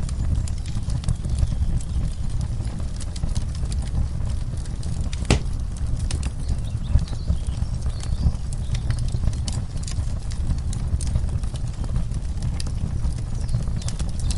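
Wood fire crackling in a fireplace: irregular sharp pops and snaps, one louder pop about five seconds in, over a steady low rumble.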